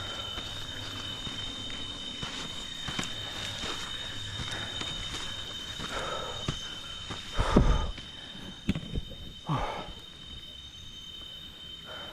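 A steady high-pitched insect drone, with a few thumps and scuffs between about seven and ten seconds in, the loudest about seven and a half seconds in.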